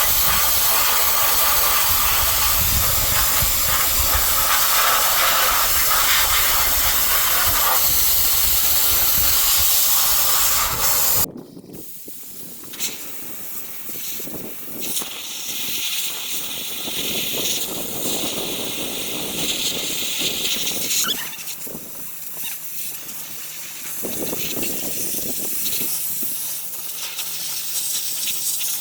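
Sandblaster blasting rust off a truck frame: a loud, steady hiss of air and abrasive that cuts off suddenly about eleven seconds in, followed by quieter, uneven hissing.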